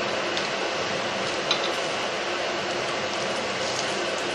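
Rava appe frying in ghee in an appe pan on a gas burner, giving a steady sizzle. A few light clicks of a spoon and fork against the pan as the appe are turned, the sharpest about a second and a half in.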